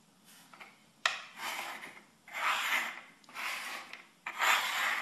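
Small shells slid and scraped across a wooden tabletop as they are shuffled in a shell game. A sharp knock about a second in is followed by four rasping scrapes, each under a second long.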